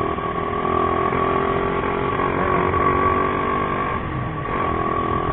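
Motorcycle engine running at a steady cruising speed, picked up on board the moving bike, with its hum holding one pitch over a haze of road and wind noise.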